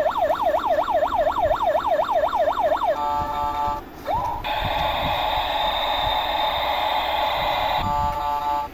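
Electronic siren sound effects from a battery-powered toy helicopter. A fast warbling siren of about four rises a second stops about three seconds in, followed by a short steady beep tone, a quick rising chirp, a long held buzzing tone and another short beep tone near the end.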